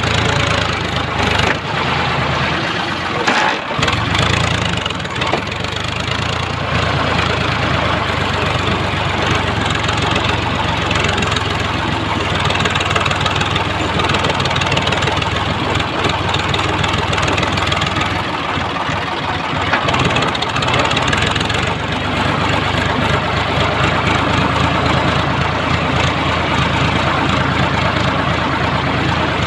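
Sonalika DI 745 tractor's three-cylinder diesel engine running steadily.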